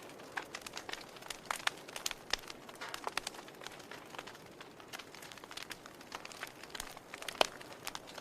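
Wood fire crackling in a fireplace: irregular sharp pops and snaps over a soft steady hiss, with one louder pop about seven seconds in.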